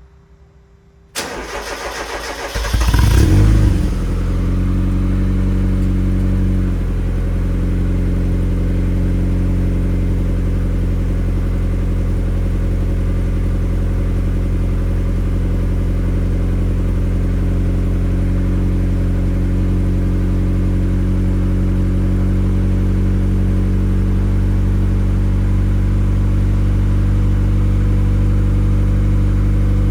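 A 1997 Mazda MX-5 Miata's 1.8-litre four-cylinder engine is cold-started. The starter cranks for about a second and a half, the engine catches and flares up briefly, then settles into a steady idle that eases off slightly a few seconds later.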